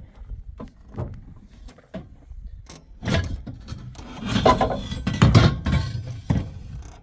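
A stiff, broken car door being worked open and shut: scattered knocks and clicks, then a loud stretch of rattling and scraping from about three to six seconds in.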